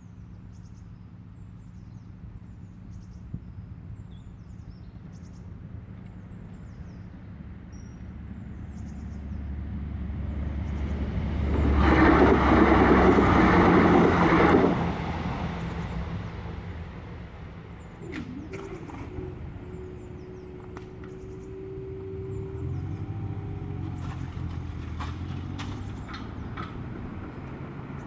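A Class 165 diesel multiple unit passes over the level crossing, growing louder over several seconds, loudest for about three seconds and then dropping away suddenly. Faint birdsong comes before it.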